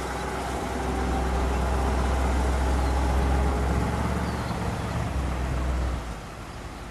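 1959 Ford Fairlane 500 Skyliner's 352 cubic-inch V8 running as the car drives off, a low rumble that grows fainter with distance and drops away about six seconds in.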